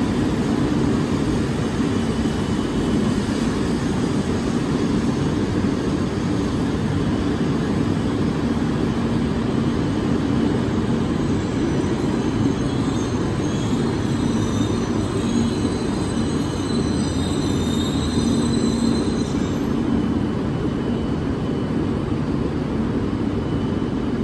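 Tohoku Shinkansen train moving along the station track with a steady rumble. Faint high squealing comes and goes in the second half.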